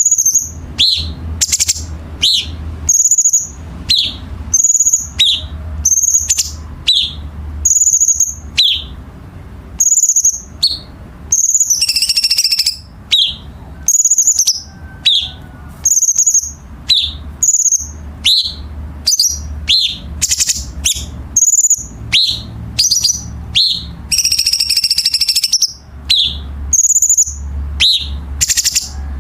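Cucak cungkok songbird calling: sharp, clipped high notes about once a second, broken now and then by harsh, rasping bursts of song. A steady low hum runs underneath.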